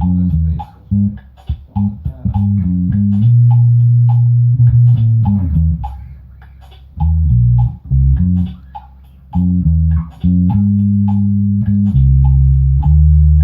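Bass guitar playing a riff of held low notes and short runs, stopping briefly twice, over a steady light ticking beat.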